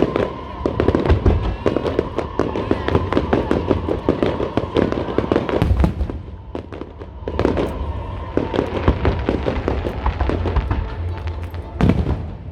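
Fireworks display: dense rapid crackling and popping over low booming bursts. There is a short lull about six seconds in, then dense crackling again and a loud burst near the end.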